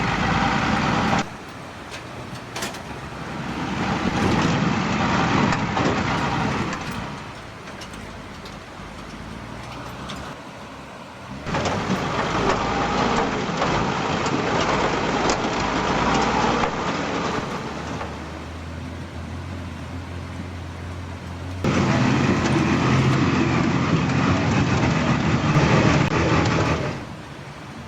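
Truck engine running, rising and falling under load, with dense mechanical noise; the level drops and jumps back up abruptly several times.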